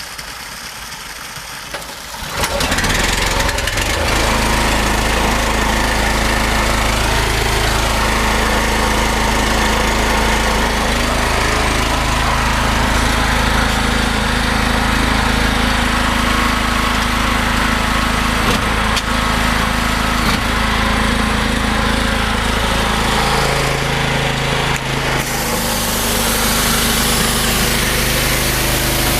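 Loncin 14-horsepower petrol engine on a belt-driven pressure washer starting about two seconds in and then running steadily. Near the end its note drops and a steady hiss comes in.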